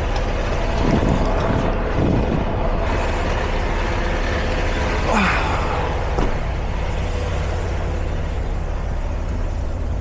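Semi-truck's engine and road noise in the cab, a steady low drone, with a few short sweeping noises a second or so apart in the first part.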